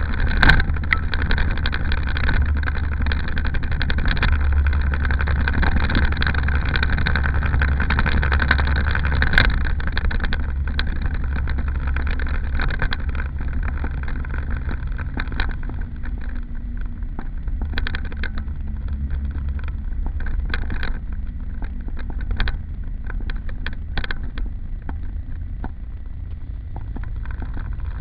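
Daihatsu Mira Gino running with a steady low drone, with scattered light clicks and rattles through the second half.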